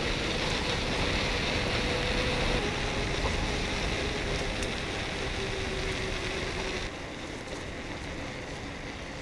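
Steady rushing of wind and tyres while riding a mountain bike, easing a little about seven seconds in.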